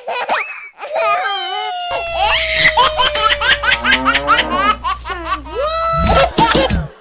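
A young child laughing and giggling in repeated bursts, over cartoon background music whose steady bass comes in about two seconds in.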